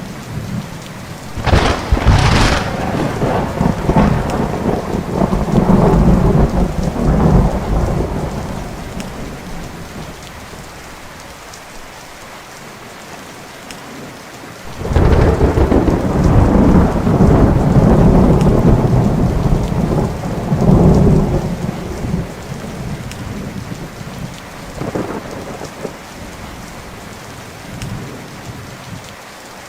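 Thunderstorm with steady rain: two sharp thunder cracks about a second and a half in, rolling into a long rumble, then after a quieter stretch of rain a second loud roll of thunder starting suddenly about halfway through.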